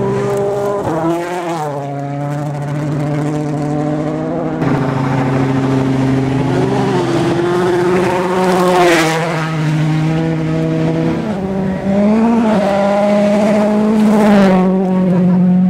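Rally car engines revving hard, the pitch climbing and dropping with gear changes and lifts, with a hiss of gravel or tyres about nine seconds in. The sound jumps abruptly twice, as from one car to another.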